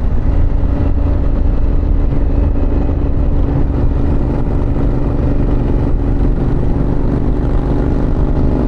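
Harley-Davidson Pan America's 1250 V-twin engine running at a steady cruise while riding.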